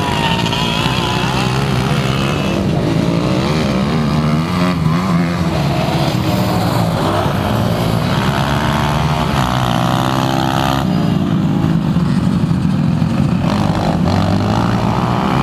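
Motocross dirt bike engines running on the track, their pitch rising and falling continuously as the riders open and close the throttle, with more than one bike heard at once.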